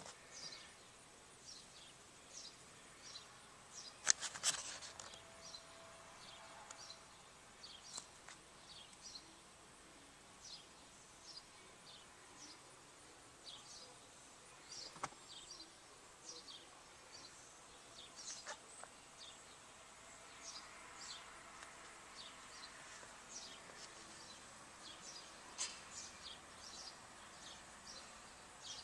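Faint outdoor ambience with small birds chirping over and over in short, high, falling chirps. A single sharp click about four seconds in.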